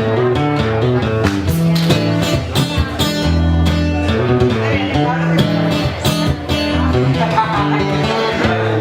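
Live band playing an instrumental passage led by guitar, with no singing.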